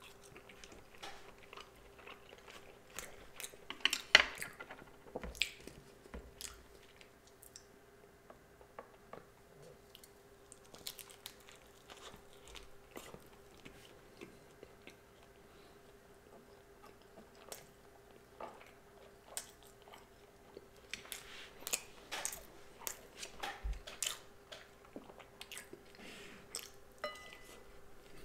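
A person chewing and biting food close to the microphone, wet clicks and small crunches coming in irregular clusters, busiest about four seconds in and again past the twenty-second mark.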